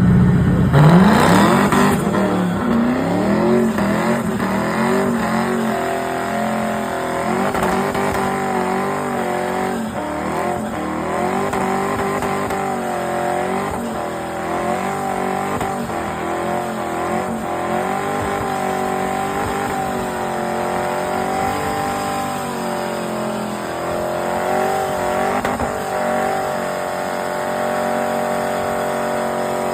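Car engine revving up sharply about a second in, then held at high revs with its pitch wavering up and down, with tyre squeal underneath.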